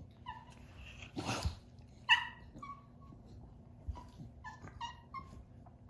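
A dog whining in a series of short, high-pitched whimpers, frustrated because it can't get at its toy. There is a brief rush of noise about a second in.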